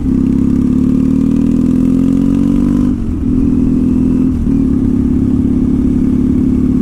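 2014 Triumph Thruxton's parallel-twin engine running through British Customs slash-cut TT exhausts, rising in revs under acceleration for about three seconds. It then dips briefly twice, about three and about four and a half seconds in, as at upshifts, and runs steadily in gear.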